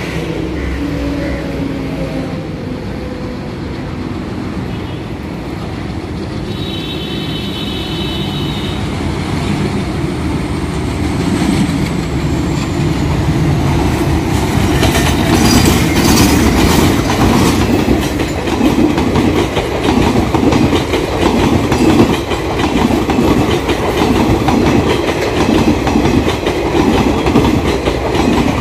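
Passenger express hauled by twin diesel locomotives approaching and running through a station: engine noise builds as the locomotives come close and pass, and a brief horn sounds about seven seconds in. After that, the coaches roll past with a steady clickety-clack of wheels over the rail joints.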